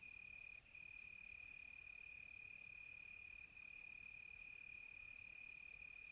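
Crickets trilling faintly at night: one steady high-pitched trill with brief breaks, over a fainter, higher chirping that pulses at first and then evens out about two seconds in.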